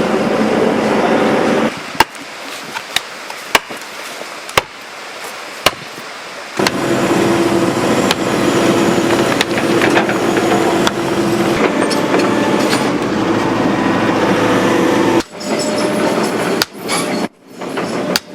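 Excavator engine and hydraulics running steadily with a whine. It drops away for a few seconds, during which there are about six sharp, separate knocks, then it comes back up.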